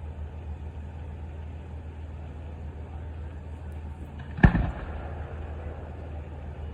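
Truck engine idling steadily, with one sharp firework bang about four and a half seconds in that rings on briefly.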